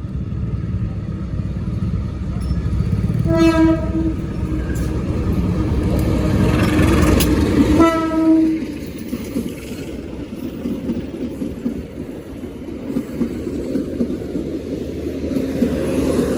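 A passing Indonesian diesel locomotive sounds its horn twice in short blasts, about four seconds apart, over the heavy low rumble of the train. After the second blast the rumble gives way to the steady rushing of carriages rolling past.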